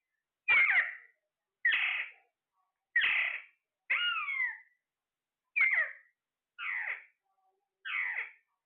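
A parrot calling repeatedly: seven short, harsh squawks about a second apart, several of them sliding down in pitch.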